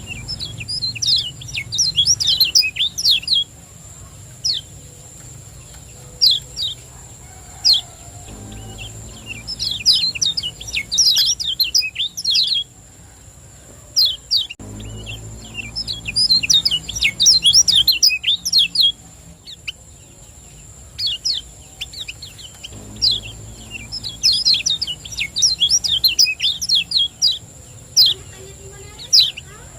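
Kecial kuning, a yellow white-eye, singing in fast bursts of rapid, high chirps a couple of seconds long, with single sharp chirps between: the 'ciak ciak jos' song used as a lure to set other kecial singing. A faint steady high whine and a low hum sit under it.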